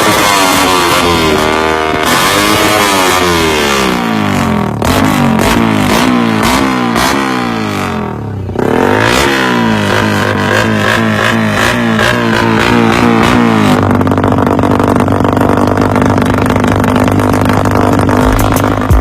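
Small motorcycle engine revved repeatedly through an Aun 'bulate' full-titanium open exhaust pipe, the pitch rising and falling with each blip. For about the last five seconds it is held steady at high revs.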